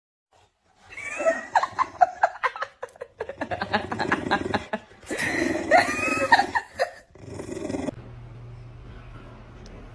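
Rubber squeaky toy shaped like lips and teeth, squeaking over and over in quick runs as an English bulldog chews it. A low steady hum follows near the end.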